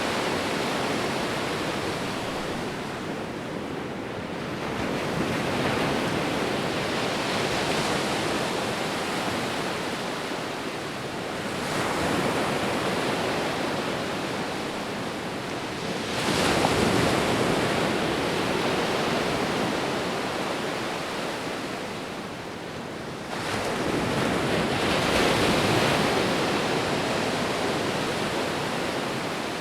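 Sea waves breaking and washing on a shore, a continuous rush that swells with a new wave every several seconds.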